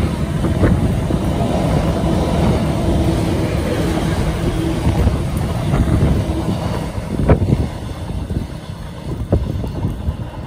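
Container freight train passing at speed, a loud steady rumble of wagon wheels on the rails with a sharp knock about seven seconds in. The noise eases as the last wagon goes by near the end.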